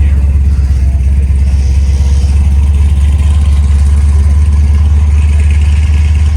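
1959 Chevrolet Corvette C1's 283 cubic-inch V8 running steadily at idle with a deep, even rumble.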